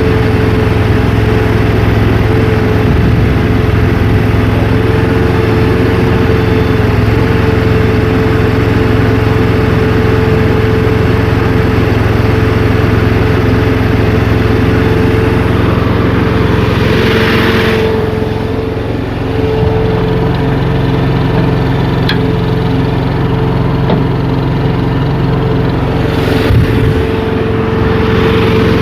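Gasoline engine of a JoyT5 JT5SSTM3 mini skid steer running steadily, with a steady whine over it. The sound dips briefly a little past halfway, and there is a short knock near the end.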